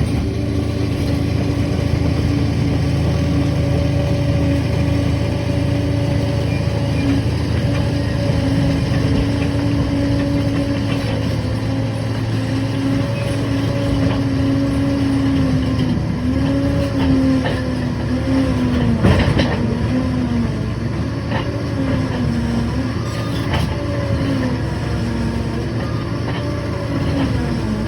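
Liebherr 746 bulldozer working, its engine and drive running with a steady pitched tone. In the second half the pitch dips and recovers again and again as the load changes, and there is one sharp knock partway through.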